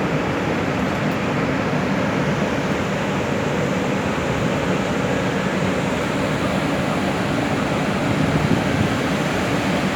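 Train running, a steady noise with no breaks or distinct impacts.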